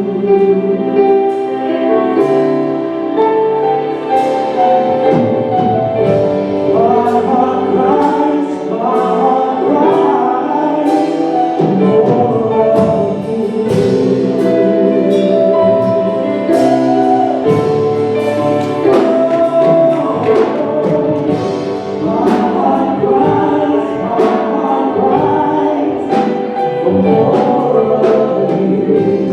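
A church worship team and choir singing a slow gospel worship song with band accompaniment, voices held in long notes with vibrato.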